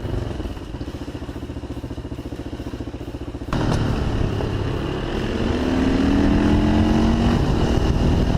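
Motorcycle engine running with a fast, even pulse. About three and a half seconds in the sound changes suddenly, and then the engine note rises as it accelerates.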